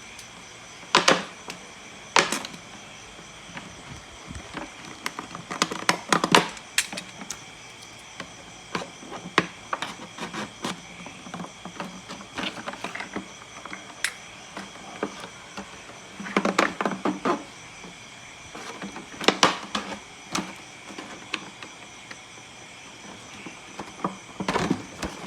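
Hands working on a plastic bottle: scattered sharp clicks and taps, with a few short bursts of plastic crinkling and scraping.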